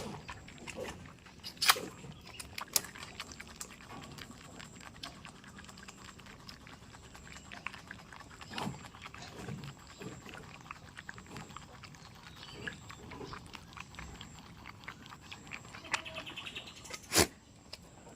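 Goats moving about: a steady scatter of small knocks and rustling, with a few sharp thumps and a short high-pitched call near the end.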